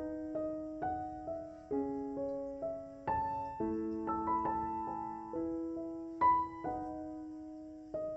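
Background piano music, a slow, gentle melody of single struck notes that ring and fade.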